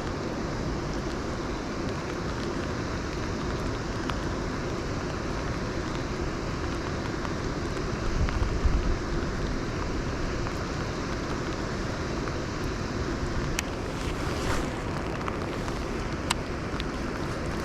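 Strong wind buffeting the microphone over a steady hiss of outdoor noise, with a louder low gust about eight seconds in. A few sharp clicks come near the end.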